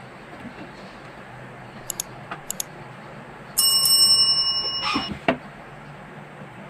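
A piece of metal struck once, ringing out with a bright bell-like tone that fades over about a second and a half, preceded by a few light clicks and followed by two sharp clacks.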